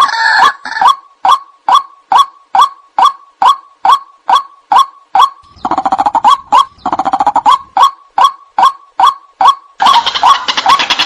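White-breasted waterhen (ruak-ruak) calling, a loud repeated 'ruak' note about twice a second. The calls come thicker and overlap around six seconds in and again near the end.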